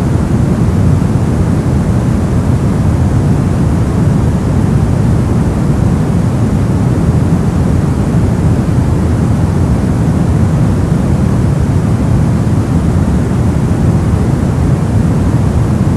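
Steady brown noise: a deep, even rumbling hiss, strongest in the low end and fading toward the highs, with no change or events.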